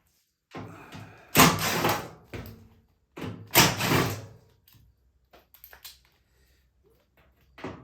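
Two loud clattering scrapes of sheet metal, each under a second and about two seconds apart, with lighter knocks between, as a front-load washing machine's panels and parts are pulled apart.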